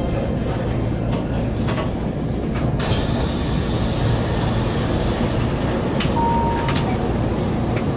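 Steady hum of a Keihan electric train standing at a station platform, with several sharp clicks and a short beep about six seconds in.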